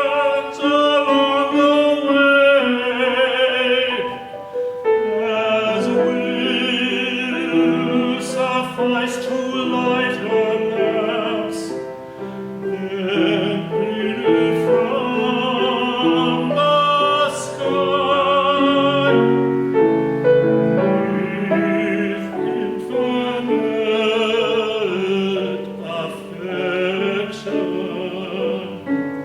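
Classically trained solo voice singing with vibrato, accompanied by piano.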